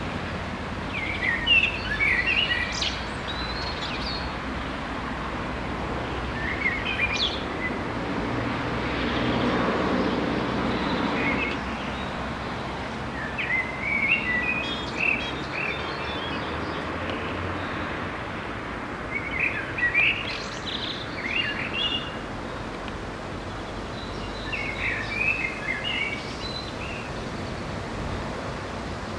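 Songbirds singing short chirping phrases every few seconds over a steady outdoor background rumble, which swells briefly about ten seconds in.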